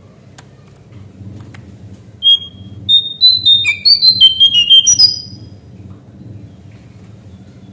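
Lesser shortwing (cingcoang coklat) singing: a single clear whistled note about two seconds in, then a quick run of whistled notes jumping up and down in pitch, ending about five seconds in. A faint low hum lies underneath.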